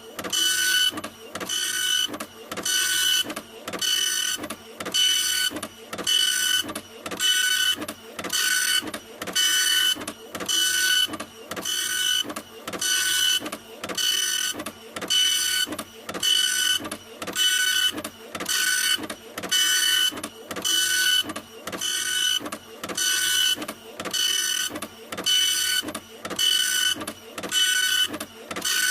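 Printer running continuously: a motorised mechanical whir that repeats in a quick, even rhythm of short passes with brief gaps between, each pass carrying a steady high whine.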